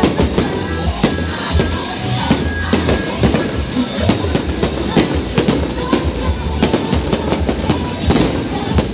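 Long strings of firecrackers crackling in a dense, unbroken rattle of bangs, mixed with music.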